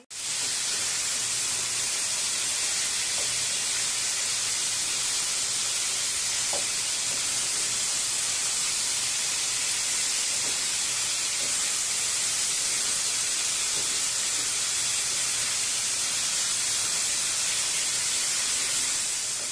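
Chicken pieces frying in hot oil in an aluminium pan: a steady, even sizzle.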